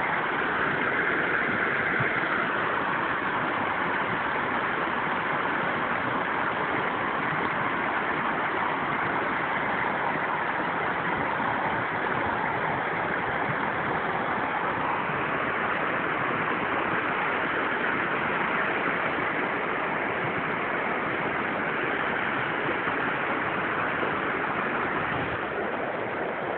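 Steady rushing noise with no distinct calls, knocks or changes.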